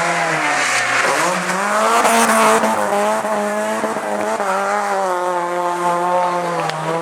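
Rally car engine running hard on the stage, its pitch dropping about a second in and climbing again, then holding high with slow rises and falls.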